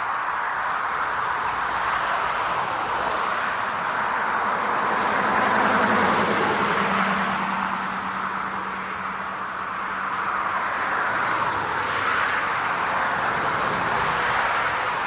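Jet airliner engine noise: a steady rush that swells to its loudest about six seconds in, then eases slightly.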